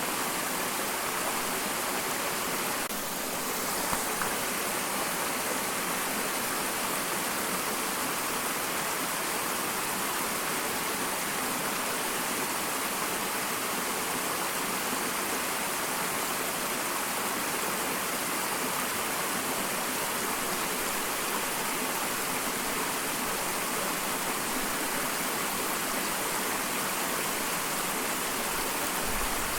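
Small waterfall: water falling and splashing in a steady rushing hiss, with a brief dip and a small splash about three to four seconds in.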